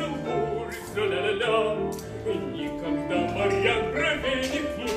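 Operatic singing with vibrato over sustained accompaniment, part of an operetta number.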